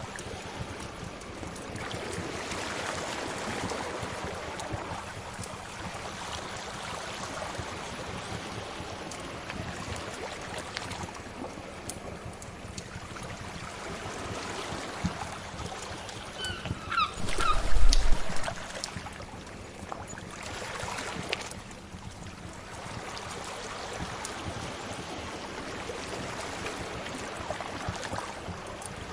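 Sea waves washing ashore in slow swells, with light crackling from a fire under them. About two-thirds of the way through there is a short, louder burst with a thump and a few short high chirps.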